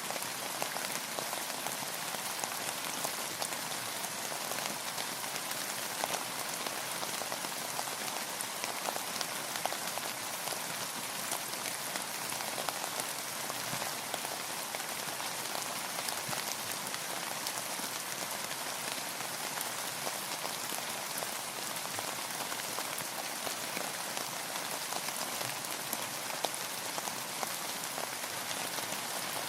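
Steady rain falling, a dense even patter of many drops striking a surface.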